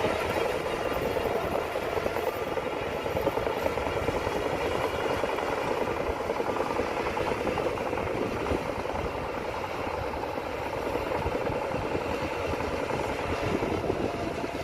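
Heavy diesel earthmoving machinery running steadily, with rattling and vibration.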